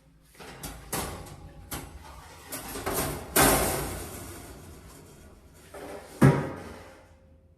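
Kitchen cleaning handling sounds: a few light knocks, a loud rushing scrape about three and a half seconds in that fades over a second, and one sharp thump a little past six seconds.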